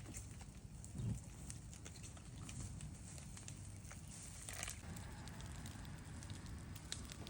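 Fuel-soaked pile of a fallen tree burning: a steady low rumble with scattered crackles and pops, and a dull thump about a second in.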